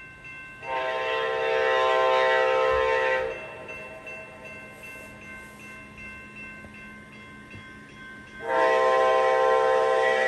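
Horn of an Amtrak P42DC diesel locomotive sounding two long blasts, about six seconds apart. The second blast is still going at the end.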